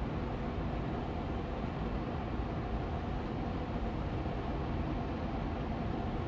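Air purifier fan running steadily on medium speed: an even rushing hum of moving air with a faint steady tone in it.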